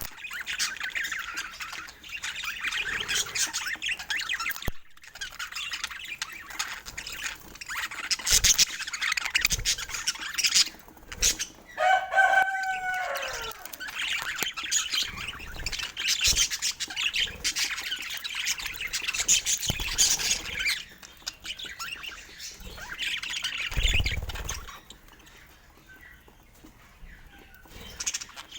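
Budgerigars chirping and chattering in a dense, continuous high twitter, with one clearer falling call about twelve seconds in. The chatter thins out near the end.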